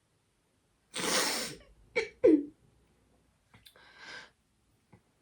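A woman crying: a sharp noisy breath about a second in, two short catching sobs right after it, then a fainter shaky breath out.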